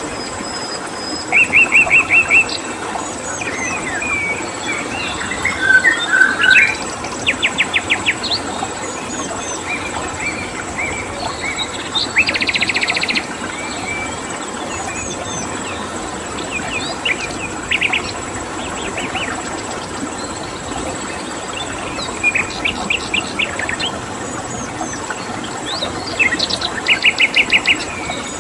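Several songbirds calling and singing, with rapid trills of quickly repeated notes and a longer buzzy trill about halfway through, over a steady rush of flowing water and a steady high cricket chirring.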